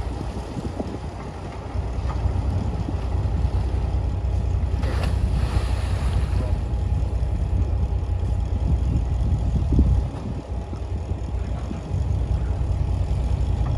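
Heavy diesel earthmoving machinery running: a steady low engine rumble that eases off briefly about ten seconds in, then picks up again.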